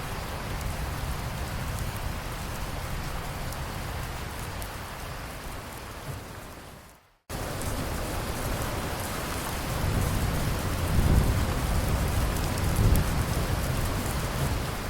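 Steady rain falling, with a low rumble of thunder swelling in the second half. About seven seconds in the rain fades out to a brief silence and then cuts straight back in.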